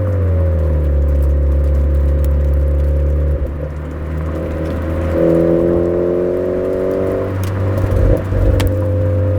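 Suzuki Swift Sport ZC33S's 1.4-litre turbo four-cylinder running through a Fujitsubo aftermarket exhaust on a downhill drive. The engine note falls at the start, holds steady, rises about five seconds in and eases back about two seconds later, with a few low thumps near the end.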